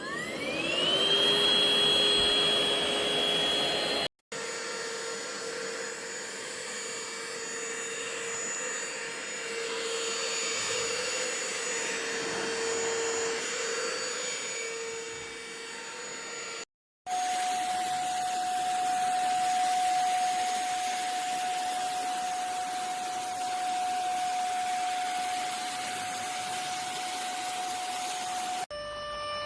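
Handheld dust-mite vacuum cleaner motor spinning up with a rising whine, then running steadily. The sound cuts out briefly twice, and the whine settles at a different steady pitch in each of the three stretches.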